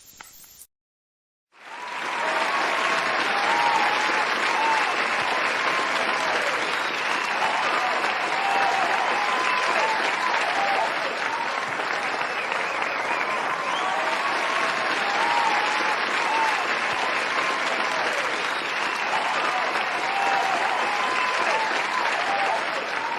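Crowd applauding, with scattered shouts among the clapping, starting after a moment of silence and running steadily.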